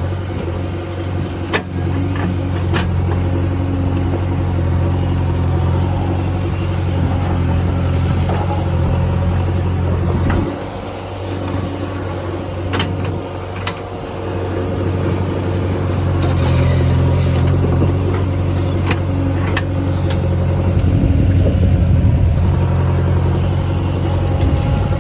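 Diesel engine of heavy earth-moving machinery running steadily. It dips about ten seconds in and builds up again later, with a few sharp metallic knocks.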